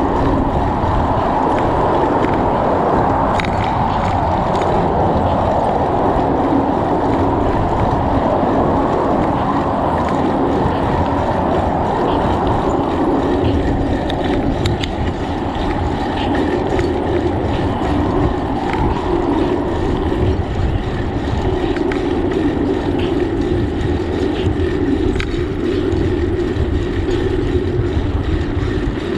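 Wind rushing steadily over the microphone of a camera riding on a moving bicycle, mixed with tyre noise from the road, with a few faint ticks.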